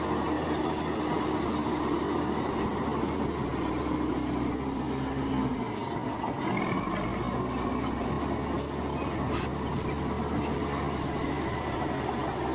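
Komatsu crawler bulldozer at work: its diesel engine running steadily, with a metallic squeal and rattle from its steel tracks.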